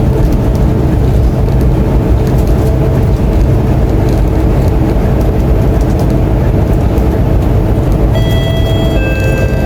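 Scania K230UB Euro IV city bus heard from inside the passenger cabin, its engine and drivetrain running steadily with a deep drone while under way. Near the end a two-note chime sounds, stepping down from a higher note to a lower one.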